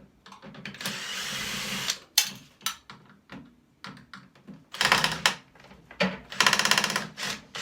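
Cordless drill-driver running in three short bursts, with small clicks and knocks between them. The last burst is a rapid rattle, the sign of a bit too big for the screw slipping in its head.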